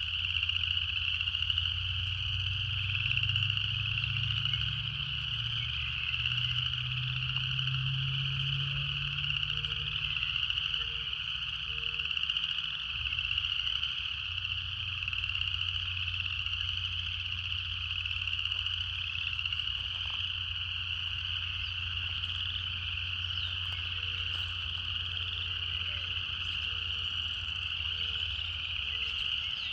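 Cicadas singing in chorus: a continuous high, shrill buzz that swells and pulses slightly without a break.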